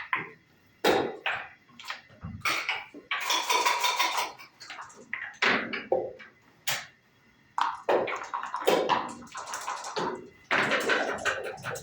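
Backgammon play: checkers clacking down onto the board and dice rattling and bouncing, as a string of sharp clicks with two longer stretches of rattling.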